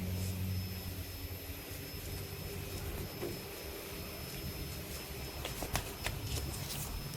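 A small engine running at a low, uneven idle after a rev, with a few sharp clicks near the end.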